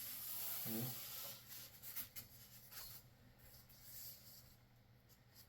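Faint scratching and rubbing from hand work on a wooden layout table, with a few light ticks that taper off.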